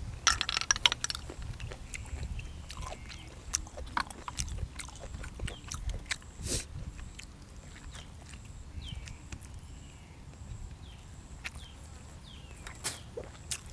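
Close-up mouth sounds of a person eating boiled apple snails with fresh vegetables: wet chewing and lip-smacking, with many irregular sharp clicks and a brief louder burst about half a second in.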